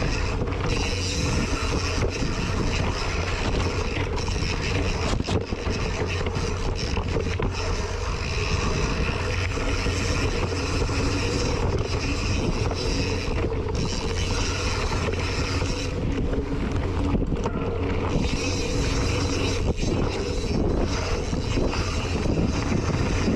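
Mountain bike riding down a dirt trail: steady tyre and wind noise on a GoPro's microphone, with the bike rattling and scattered knocks over rough ground.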